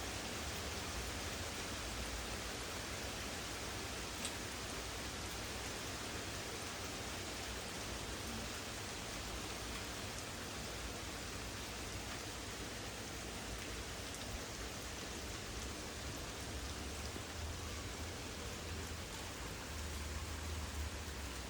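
Steady rain of a thunderstorm falling, with a low rumble that comes and goes and swells near the end, and a single sharp tick about four seconds in.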